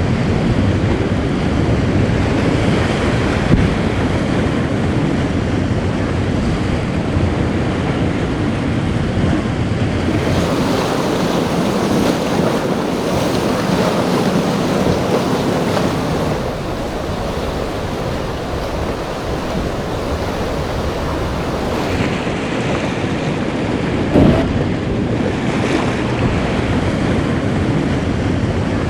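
Rough surf churning and breaking, with wind buffeting the microphone. The sound shifts twice, and there is one short sharp knock about three-quarters of the way through.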